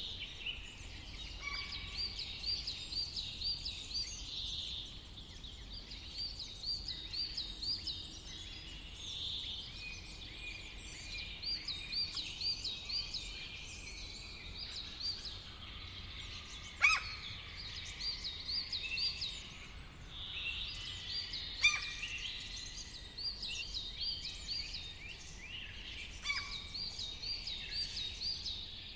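Several wild birds singing together. One bird keeps repeating a short run of quick, high rising notes every few seconds, and two loud, sharp calls stand out, one about halfway through and another a few seconds later.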